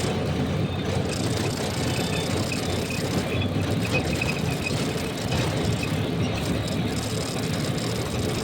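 Steady rumble of truck traffic, engines running in a jam, with faint short high squeaks in the middle.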